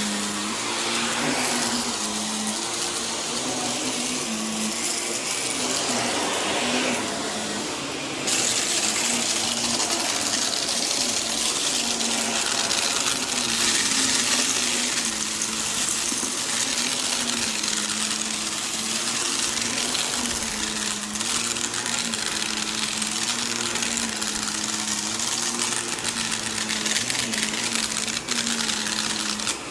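Vacuum cleaner running over a rug, its motor hum wavering up and down in pitch as the load changes, over a steady rush of suction. The rush gets brighter and a little louder about eight seconds in.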